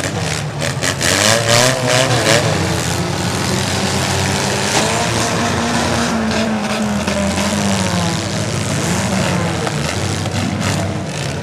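Demolition derby cars' engines revving, their pitch rising and falling, with several sharp bangs in the first few seconds and again near the end.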